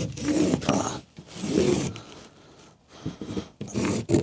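Felt-tip marker rubbing and squeaking in short strokes as it is drawn across the material, the marker running dry.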